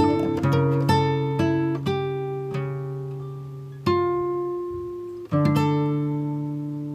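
Background music: acoustic guitar, notes plucked and left to ring out and fade. Fresh notes come about every half second at first, then single struck notes or chords ring for over a second at a time, with new ones about four and five and a half seconds in.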